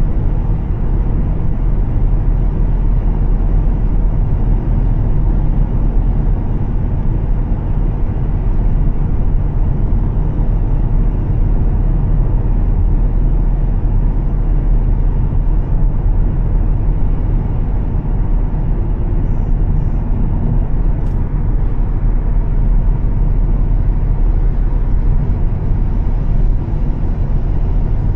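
Volvo S60 T6's turbocharged straight-six engine and Heico exhaust droning steadily while cruising, mixed with tyre and road noise from a wet road. The level holds even, with no revving or gear changes.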